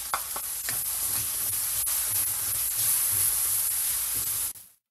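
Chopped onion sizzling as it drops into hot oil with sautéing garlic in a wok, with a few clicks as it lands, then steady frying while a spatula stirs it. The sound cuts off suddenly near the end.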